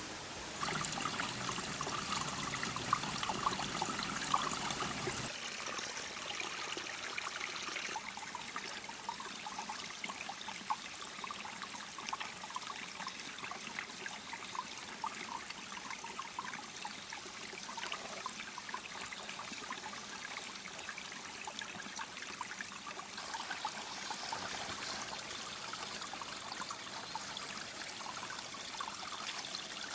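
Water trickling and running steadily with many small splashing ticks, fuller for the first few seconds and then lighter.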